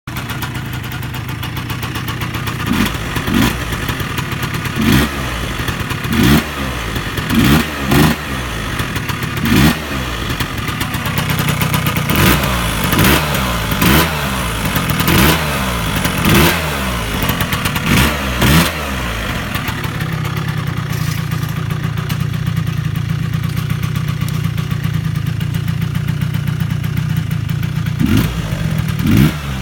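Honda Dio AF34 scooter's two-stroke sport engine running, its throttle blipped again and again so the revs rise and fall quickly about a dozen times. It then settles to a steady idle for several seconds before two more blips near the end.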